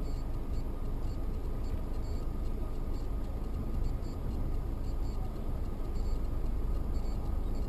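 Steady low rumble of engine and road noise inside a moving car, picked up by a dashcam microphone, with a faint steady whine above it.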